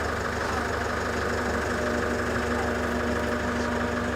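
An engine idling steadily, a constant low drone.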